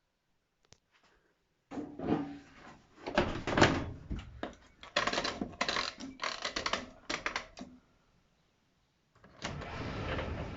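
Irregular clattering and knocks from the AEG Öko-Lavamat 693 washing machine for about six seconds. After a brief pause, a steady mechanical running noise starts near the end.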